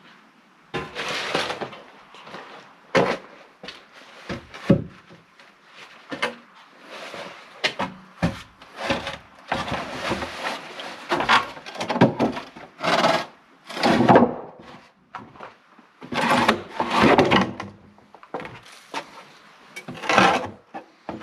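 Wooden boards and a wooden staircase being handled and set in place: repeated knocks, thuds and scrapes of wood on wood.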